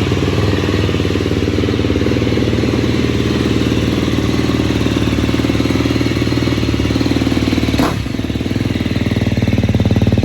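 Dirt bike engine running steadily at a fairly constant speed. There is a sharp click about three-quarters of the way through, after which it is a little quieter.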